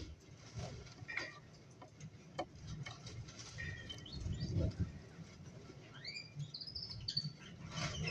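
Cockatiels chirping, with short calls and rising whistles in the second half, after a scatter of light clicks and taps.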